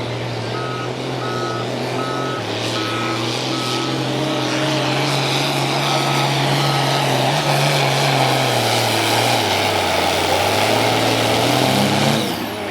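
A heavy truck's engine running steadily while a reversal beeper sounds in a regular series of beeps, fading and returning partway through. Near the end the engine pitch drops, then the sound cuts off suddenly.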